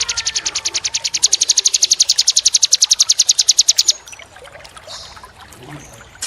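A small songbird's fast, even, high-pitched trill of about fourteen notes a second, stopping about four seconds in. Trickling water and a few faint chirps follow.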